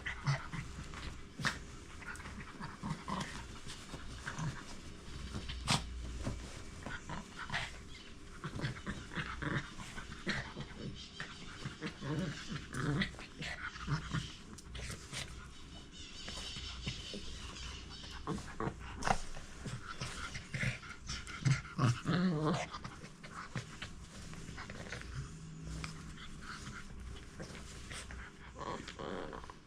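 Dogs playing, panting and growling, with many scattered knocks and scuffles throughout.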